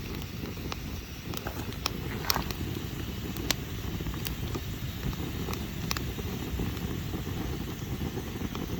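Open wood fire crackling, with sharp irregular pops, over a steady low rumble of wind on the microphone.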